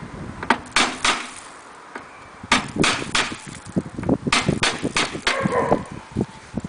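Sharp knocks and clanks from hand tools and metal parts being handled during car repair work, about a dozen in irregular groups of two and three, with a brief scrape near the end.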